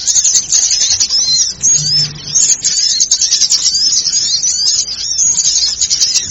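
Many small birds chattering and chirping at once, a dense, unbroken noise of quick high twittering notes and short sweeps. It is a bird-lure (pikat) recording of agitated small-bird calls, used to draw small birds in.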